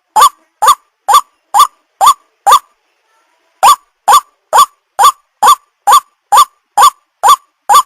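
White-breasted waterhen (ruak-ruak) calling: a short, rising note repeated about twice a second, six times, then after a pause of about a second another ten times at the same pace.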